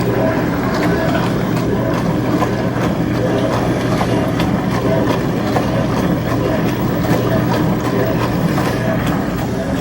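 Haier HDC1804TW countertop portable dishwasher running its wash cycle: a steady motor hum under a constant rush of water spraying inside the tub.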